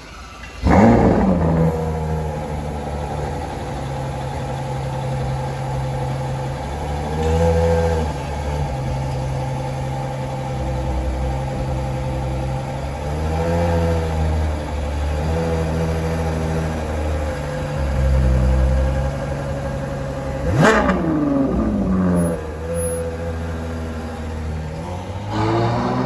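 Ferrari 812 Superfast's 6.5-litre V12 starting about a second in with a sharp flare of revs, then settling into a steady idle. Several short throttle blips follow, with a sharp rev about two-thirds of the way through, and it revs again near the end as the car pulls away.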